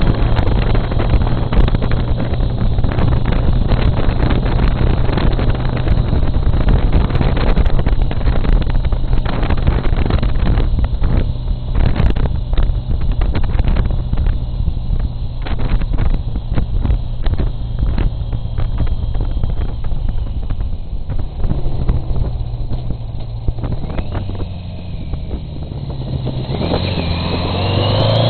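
Motorcycle engine running at a steady cruise, with wind buffeting the microphone. Near the end it eases off, then rises in pitch as it accelerates again.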